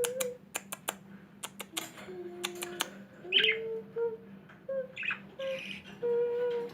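Pet birds chirping, with sharp clicks and two louder calls about three and five seconds in, over a run of held melodic notes.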